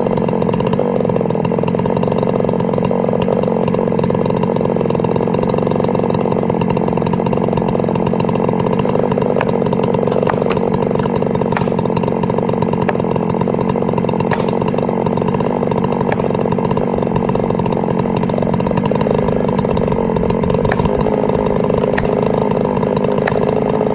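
A chainsaw running at high revs in a long, steady cut into a tree being felled, its pitch sagging slightly about nineteen seconds in.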